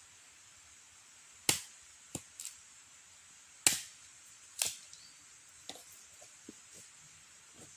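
Sharp cracks and snaps of wood: three loud ones and several smaller clicks at uneven intervals.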